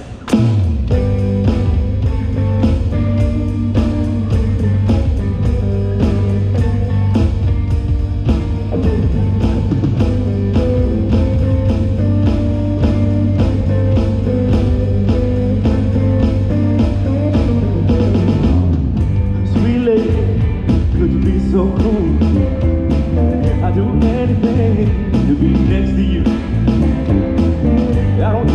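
Live band of electric guitar, bass guitar and drum kit playing a rock-blues song. It kicks in loud at once, with a steady drum beat under a strong bass line.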